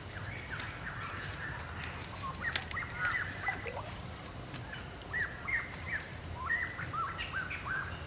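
Small birds chirping: quick bursts of short chirps, and a higher note that dips and rises, heard three times.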